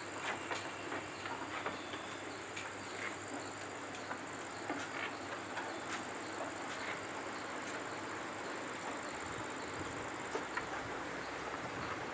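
Insects trilling steadily at a high pitch over outdoor ambience, with scattered small clicks and a low rumble that builds near the end.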